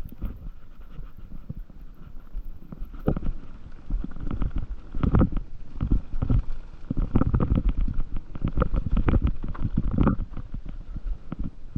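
Low rumbling noise on the microphone with many irregular thumps, which get denser and louder about four seconds in: movement noise from a camera carried along a trail.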